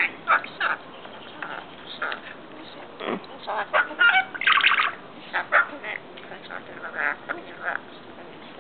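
Rainbow lorikeet giving a run of short, harsh squawks and chatter, densest about four to five seconds in.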